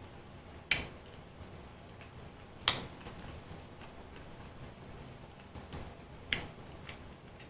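Mouth clicks and smacks while chewing Brazilian cheese bread: a handful of sharp, separate clicks with quiet between them, the loudest about a third of the way in.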